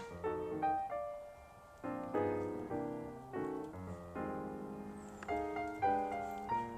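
Background piano music: a gentle melody over chords, notes struck and left to ring.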